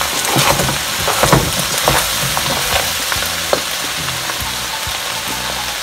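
Fried rice sizzling in a large stainless-steel pot over a gas burner while it is stirred: scrapes and knocks of the utensil against the pot during the first few seconds, then a steady sizzle.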